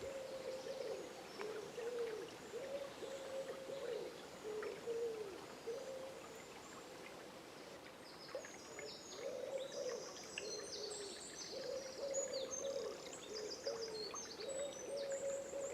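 Dawn forest chorus: a bird gives low hooting calls again and again, short arched notes with barely a pause between them. About halfway in, songbirds join with rapid high chirping and trills.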